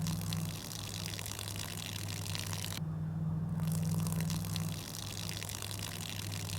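Submersible 120-volt sump pump running with a steady electric hum while water pours, pumping out a flooded storm shelter.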